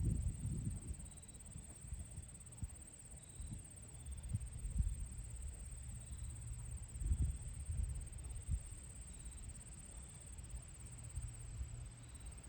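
A steady high-pitched insect trill over low, gusting wind rumble on the microphone, with a few short faint high chirps every second or two.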